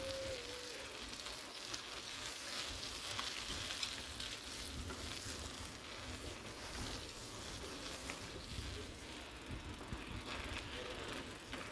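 Mountain bike tyres hissing steadily over a wet, slushy road while riding, with an uneven low rumble underneath.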